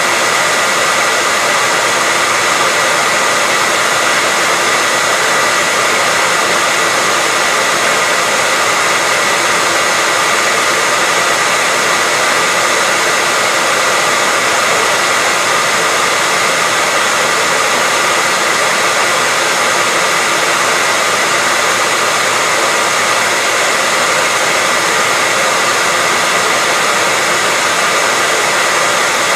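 Hair dryer running steadily: an unbroken rush of blown air with a constant high whine from the motor and fan.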